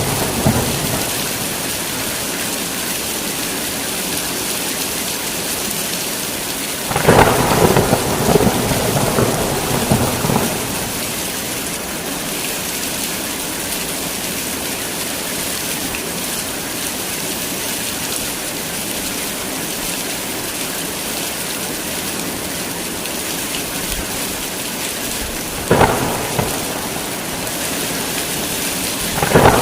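Heavy rain falling steadily in a thunderstorm. A rumble of thunder rolls in about seven seconds in and lasts a few seconds. Two shorter, sharper thunderclaps come near the end.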